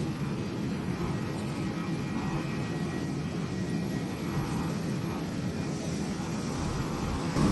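Steady fixed-wing aircraft engine noise, an even low rumble with a faint high whine over it.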